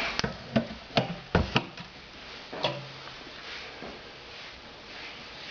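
Fireplace door being handled and shut: a quick run of sharp knocks and clanks in the first three seconds, then only a faint steady hiss.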